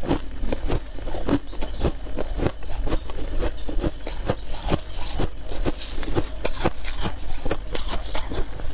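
Close-up chewing of soft, powdery freezer frost: quick, irregular crunches, several a second.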